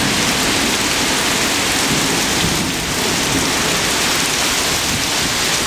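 Heavy rain pouring down steadily in a thunderstorm, with strong wind gusting and rumbling at the low end.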